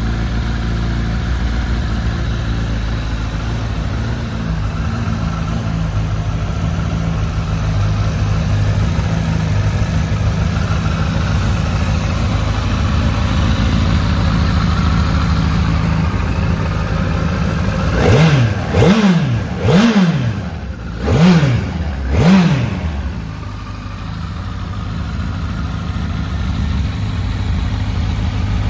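2005 Honda CBR1000RR Fireblade's inline-four engine idling steadily. A little past halfway, the throttle is blipped five times in quick succession, the revs rising and falling sharply each time, before it settles back to idle.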